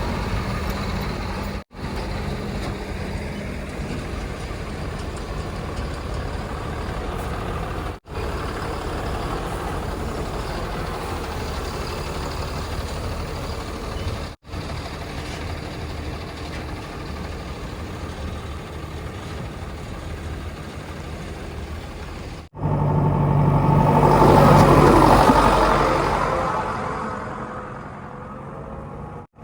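Heavy diesel vehicle engines running steadily, in several segments separated by abrupt cuts. Near the end a louder engine swells up and fades away, as a vehicle passes close.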